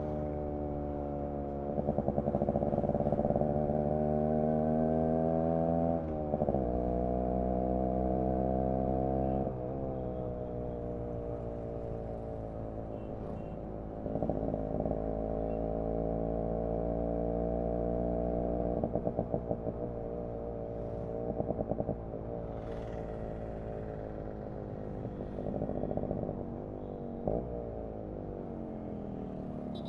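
Yamaha RX 100's single-cylinder two-stroke engine and exhaust running under way, the revs climbing and then dropping sharply about five times.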